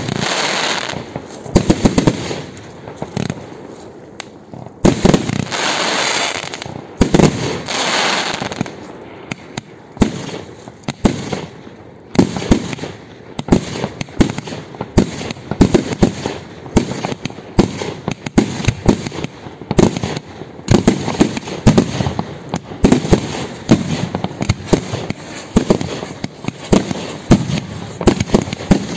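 Professional fireworks display: a dense run of sharp bangs from shells and cake volleys bursting, often several a second, with longer stretches of hiss and crackle about a second in and again around five to eight seconds.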